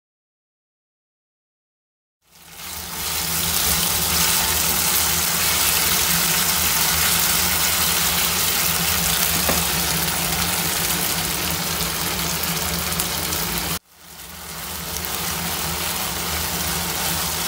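Oil sizzling loudly in a frying pan as chicken pieces, then onion and bell pepper strips, are stir-fried, with a steady low hum underneath. It fades in after about two seconds of silence, cuts off abruptly near the end and fades back in.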